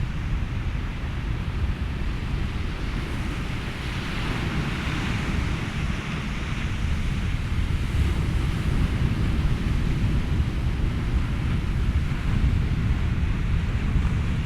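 Ocean waves washing in over a steady low rumble of wind, one wave swelling a few seconds in.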